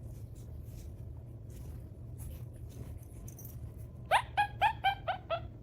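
An animal gives six quick, rising yelps in a row, about four a second, starting about four seconds in, after a stretch of faint tapping.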